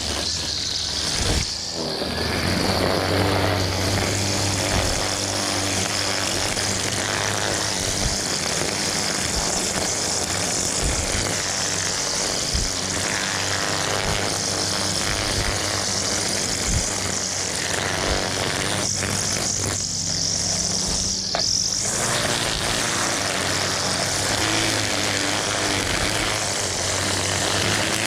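Gas string trimmer running at cutting speed, a steady engine drone with a high whine that eases off briefly about two-thirds of the way through.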